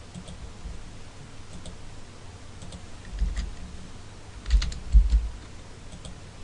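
Scattered clicks of a computer keyboard, with a quick run of several clicks about four and a half seconds in. A few dull low thumps come with them, the loudest about five seconds in.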